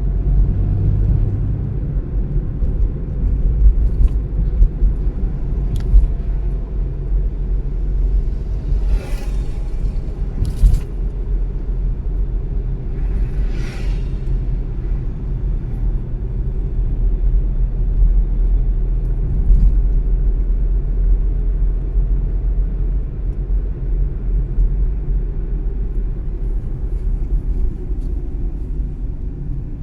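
Car driving, a steady low road and engine rumble. A short hissing noise comes a little before halfway, followed by a sharp click and, a few seconds later, another brief hiss.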